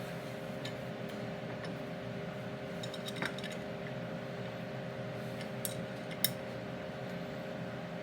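A few light metal clinks from a wrench working on the differential gear bolts, the sharpest about six seconds in, over a steady low hum.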